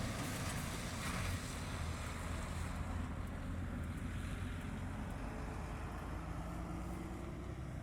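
Rolls-Royce Dart turboprop engines of a YS-11 aircraft running with a steady low drone.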